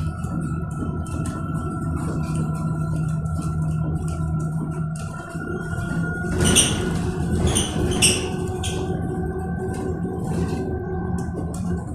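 Electric bus running, heard from inside: low road and tyre rumble with a steady hum and a thin high electric-motor whine. A few short, sharp high ticks come in the middle.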